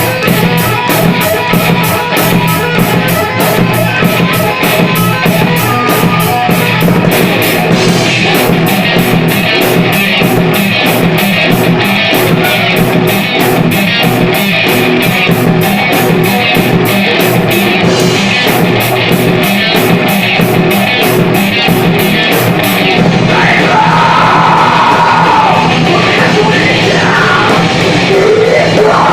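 A heavy-metal band playing loud, with distorted guitars and fast, even drumming. About 23 seconds in, the cymbal wash drops away and a bending, sliding line stands out over the band.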